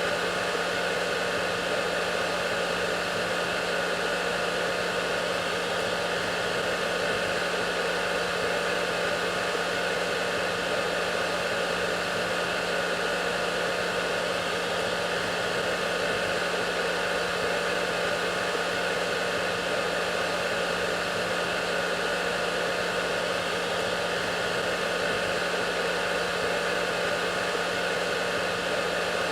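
Electric hair dryer running steadily: an even rushing of air from its fan with a low motor hum and a faint whine over it, unchanging throughout.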